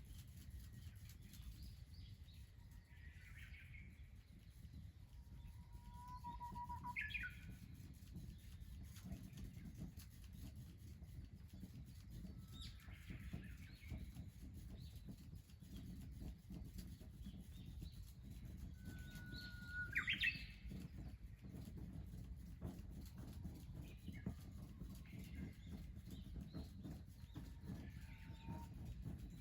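Songbird calls ringing out three times, each a held whistle that sweeps sharply up into a short high flourish, with fainter chirps between, over a steady low rumble.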